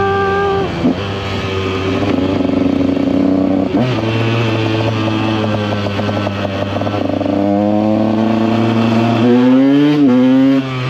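Two-stroke KTM EXC 125 engine running as the bike is ridden. Its pitch dips and changes a few times, then climbs from about three-quarters of the way through and drops off sharply just before the end.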